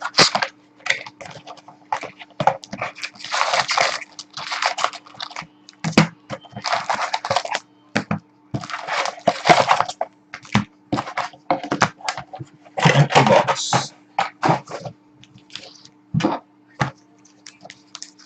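Packs of hockey cards being torn open and the cards handled: crinkling rips of wrapper about a second long, four main ones, among short clicks and taps, over a steady low hum.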